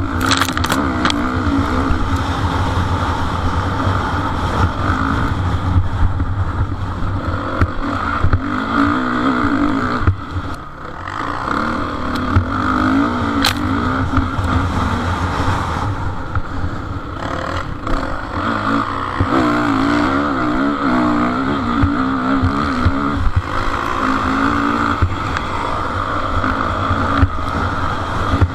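Motocross motorcycle engines running hard, their pitch rising and falling as the throttles open and close. The sound dips briefly about ten seconds in.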